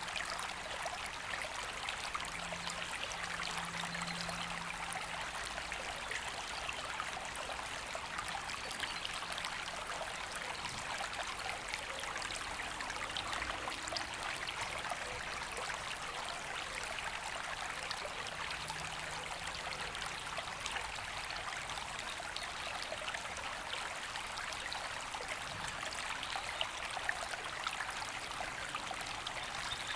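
River water flowing and rushing steadily over stones, an even, unbroken hiss.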